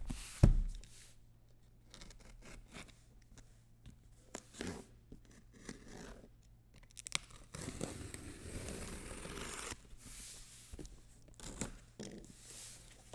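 Trading-card boxes and packs being handled and opened: a sharp thump about half a second in, then scattered cutting, tearing and scraping of wrapper and cardboard, with a longer rustle near the middle.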